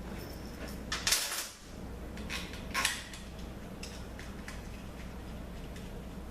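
Small steel bolts clinking and rattling against each other and a metal surface as they are picked up, in two short bursts of clatter, about a second in and near three seconds, over a steady low hum.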